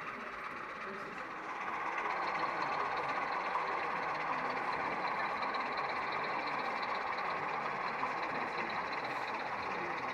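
Crowd hubbub of many people talking at once, getting louder about a second and a half in, with a faint steady high whine coming in shortly after.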